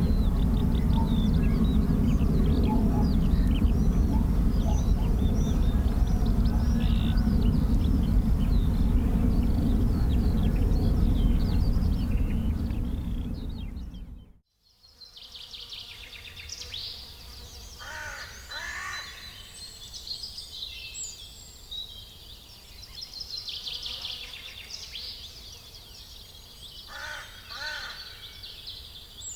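Outdoor ambience: a loud, steady low rumble with small birds chirping over it. It cuts off abruptly about halfway through, and after that a much quieter background with birds calling now and then.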